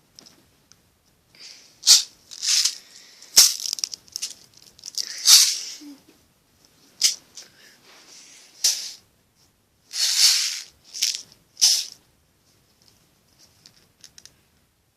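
Pin-art toy handled in irregular bursts, its pins sliding and rattling, about nine short clatters over some twelve seconds with quiet gaps, then little sound near the end.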